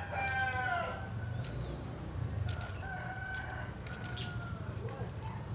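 A rooster crowing: the tail of one crow falling in pitch in the first second, then a second, fainter drawn-out crow about two and a half seconds in. Short, sharp notes from red-whiskered bulbuls come between the crows.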